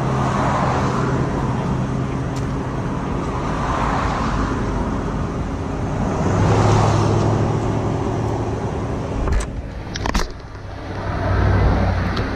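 Highway traffic passing: several vehicles rush by one after another over a steady low engine hum. Two sharp thumps come about nine and a half and ten seconds in.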